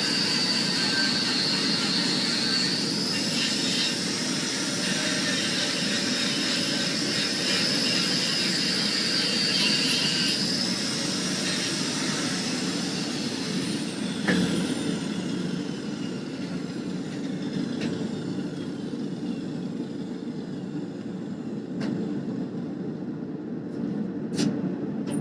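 Grinder working steel with a steady high whine, switched off about ten seconds in and slowly spinning down. A steady low rushing noise carries on underneath, with a few light clicks near the end.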